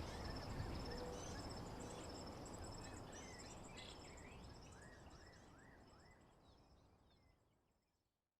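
Nature ambience of birds chirping over steady high insect trilling and a low background hum, fading out gradually until it stops about eight seconds in.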